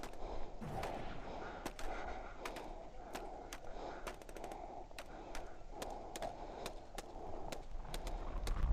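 Airsoft replicas firing during a game: scattered single shots and short strings of shots, sharp cracks at irregular intervals over a steady rustling background.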